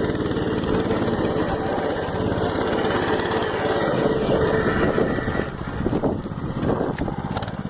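Minibike's small engine running steadily, then quieter and uneven for the last couple of seconds.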